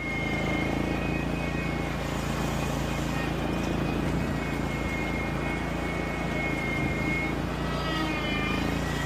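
Zero-turn riding mower engine running steadily, with a thin high whine alongside.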